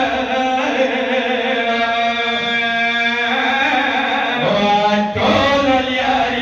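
A man chanting a Pashto rubai, a mourning verse, in a slow melody. He holds long notes, slides upward about four and a half seconds in, and breaks briefly before singing on.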